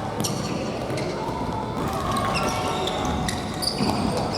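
Futsal ball being kicked and bouncing on a gymnasium floor, a string of short knocks, with brief high squeaks and players' voices calling out in between.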